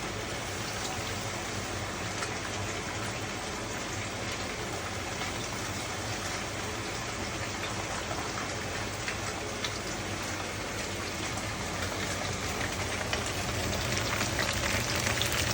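Steady rain falling, with many small drop clicks over a faint low hum, growing louder over the last few seconds.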